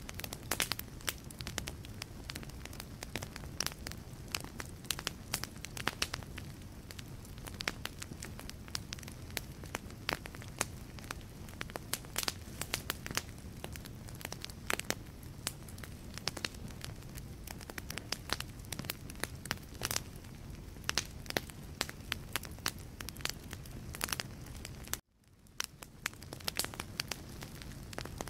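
Wood fire burning in a fireplace: logs crackling with frequent irregular pops over a steady low rumble of flame. About 25 seconds in the sound cuts out abruptly and fades back in.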